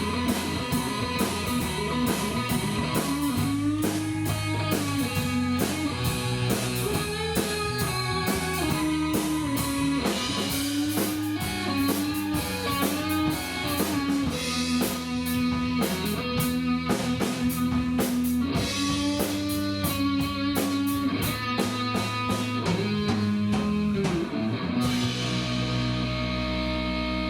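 Live rock band playing, with electric guitar and a drum kit and a melody line moving over the chords. Near the end the drums stop and a held chord rings on.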